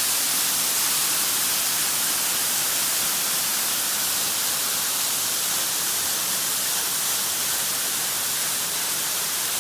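A waterfall heard from close by, its water pouring down into a sinkhole: a steady, bright rushing hiss that does not change.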